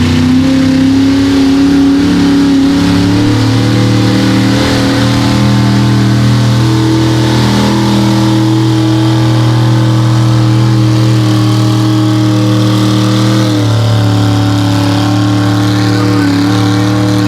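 Mega truck engine held at high revs under load during a sled pull: a loud, steady drone that shifts in pitch slightly a few times.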